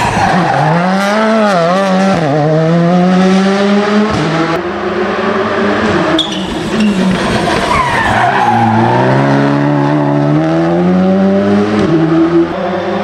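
Rally car engine revved hard on a special stage, its pitch climbing through each gear and dropping sharply at the shifts, with brief dips where the throttle is lifted.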